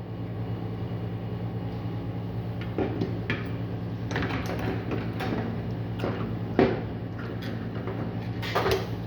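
Tools being handled and put down: scattered knocks, clicks and rattles over a steady low hum.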